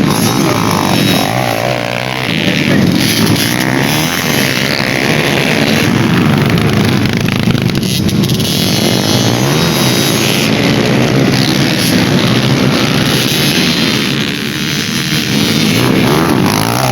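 Dirt bike engines revving hard and changing pitch continuously, several machines overlapping as they race on a dirt track.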